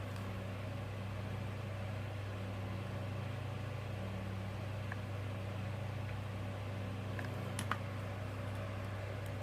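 A steady low hum with a few faint clicks of hard plastic toy parts being handled and fitted. One sharper click comes about three-quarters of the way through.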